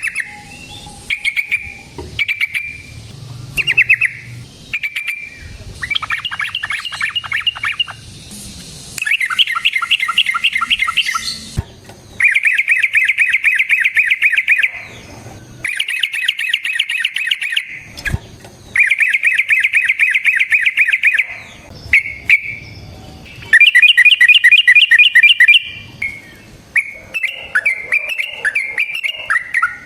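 Yellow-vented bulbul singing: a few short chirped phrases, then a series of long, very fast rolling trills of two to three seconds each, ending in a varied, bubbling warble.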